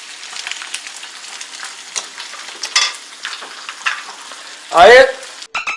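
Eggs and pasta frying in a pan on a gas stove: a steady sizzle with small pops and crackles. Near the end a short loud voice cuts in over it.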